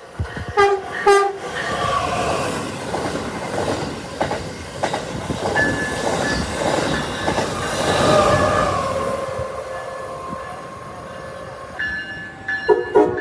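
Amtrak Avelia Liberty Acela high-speed trainset sounding two short horn blasts, then passing through the station with a long rush of wheel and rail noise and clacking over the joints, a whine dropping slightly in pitch midway. A horn sounds again near the end.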